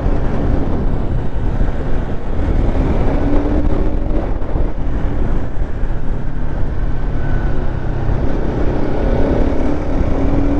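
Bajaj Pulsar RS 200's single-cylinder engine running under way, its pitch climbing a few times as the rider accelerates, over a steady heavy rumble of wind and road noise.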